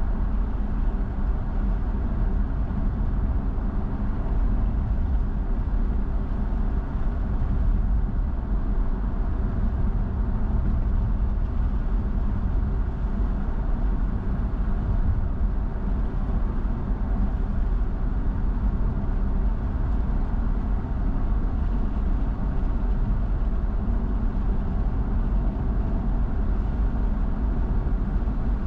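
A car driving along the road: steady engine and tyre noise with a strong low rumble, unchanging throughout.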